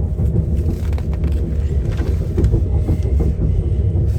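Diesel passenger train running, heard from inside the carriage: a steady low rumble with faint knocks and rattles.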